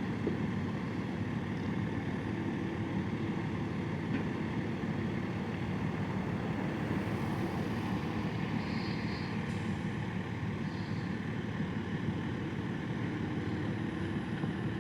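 Steady low rumble of a vehicle engine running at a distance, with outdoor wind and water noise.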